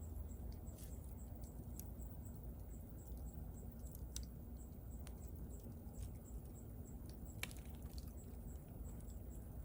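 Wood bonfire burning: a low steady rumble of the flames with scattered sharp crackles and pops from the wood, one louder pop about three-quarters of the way through.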